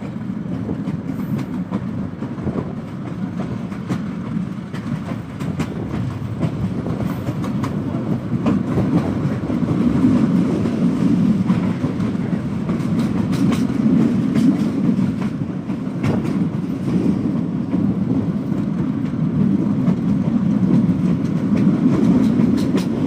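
Passenger train running along the track: a steady rumble from the wheels and coaches, with a clickety-clack of wheels passing over rail joints.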